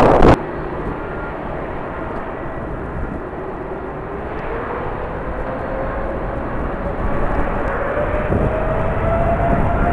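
Jet airliner engines at an airport: a steady rushing noise with a faint whine that slowly rises in pitch and grows gradually louder. A loud rush cuts off abruptly just at the start.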